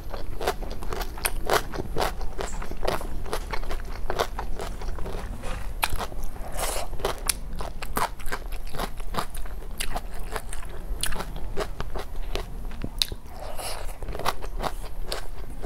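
Mukbang eating sounds from a meal of spicy snail curry with salad: a person chewing and biting, with a dense run of wet mouth clicks and snaps and a couple of longer noisy sounds.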